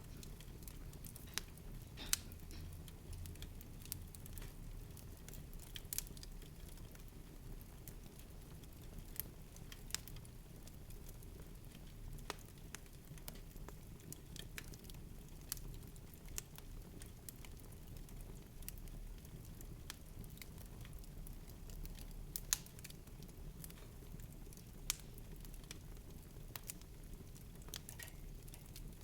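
Steady low rumble with sparse, irregular crackling clicks scattered through it, a few of them sharper and louder.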